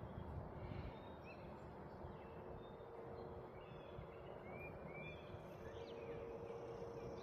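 Faint outdoor ambience: scattered short bird chirps over a low steady hum, with a thin high insect buzz coming in during the second half.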